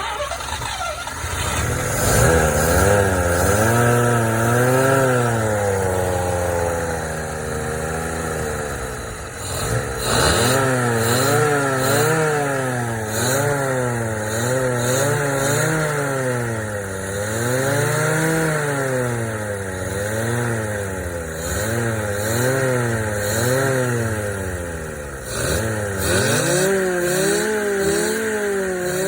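1985 Mazda RX-7's two-rotor Wankel rotary engine running and being revved up and down over and over, the revs rising and falling about every two seconds. The revs drop sharply about ten seconds in and again near the end, then pick up again.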